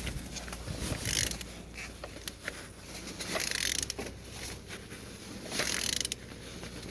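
Opel Z18XER 1.8-litre four-cylinder engine being turned over by hand with a wrench: ratcheting, clicking mechanism sounds and hissing rushes of air every second or two as the cylinders come up on compression. The engine turns freely, which the inspector takes for good compression in all cylinders.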